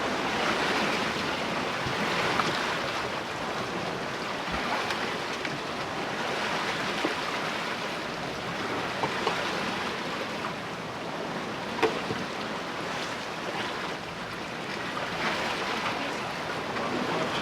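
Sea water rushing and splashing past the hull of a sailboat under way, swelling and easing with the waves, with a few short sharp clicks.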